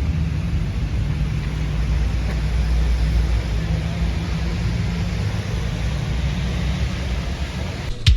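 Car engine running steadily, with an even hiss over it; it cuts off abruptly near the end.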